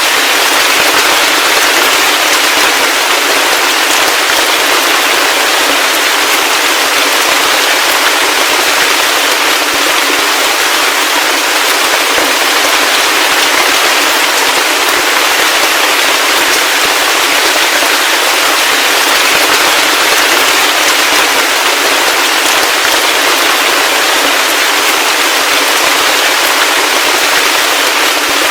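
Heavy rain falling steadily: a dense, even hiss of countless small drop impacts with no low rumble.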